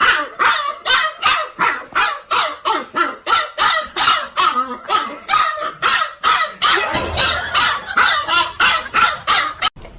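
A dog barking rapidly and without a break, about three barks a second, until a cut near the end.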